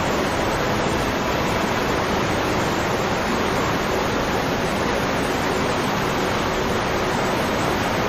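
Kakolat waterfall, a cascade of about 150 feet into a natural pool, giving a steady, loud rush of falling water.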